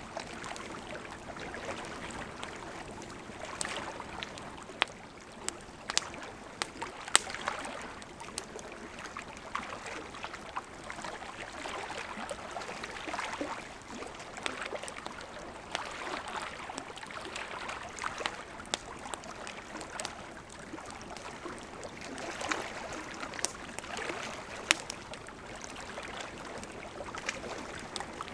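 Wood campfire burning: a steady hiss with sharp crackles and pops at irregular moments, and several louder snaps.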